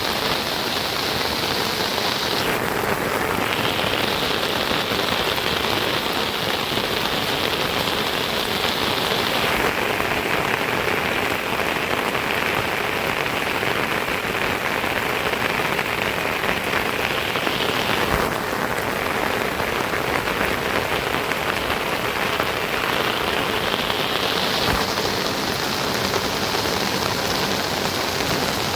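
Steady, fairly loud rain falling. The tone of the hiss shifts abruptly a few times.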